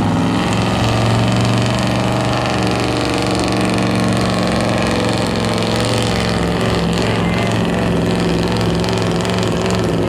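Engine of a truck or tractor pull vehicle, running loud at a nearly steady pitch.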